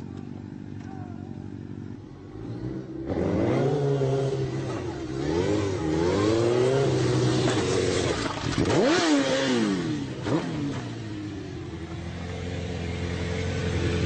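Motorcycle engine accelerating hard, about three seconds in, after a low rumble. Its pitch climbs and drops back several times as it shifts through the gears, with a sharp rise and fall near the middle.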